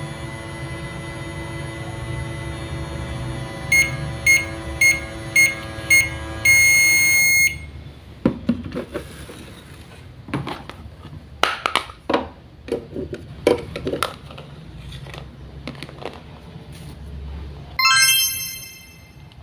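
Electronic beeps from a toy kitchen appliance: five short beeps about half a second apart, then one longer beep about seven seconds in, over background music. After that come light clicks and knocks of small plastic toy parts being handled, and a brief electronic ding near the end.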